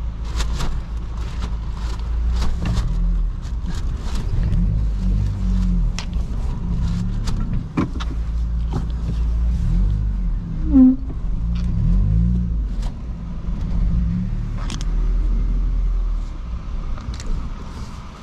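A vehicle engine running and being driven, its pitch rising and falling with the throttle, with scattered clicks and knocks. A short squeal about eleven seconds in.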